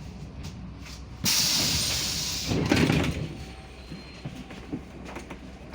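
Pneumatic doors of a MAZ 105 articulated city bus working: a sudden loud hiss of released air about a second in, lasting over a second, then a heavy thud of the door leaves, over the steady low hum of the bus.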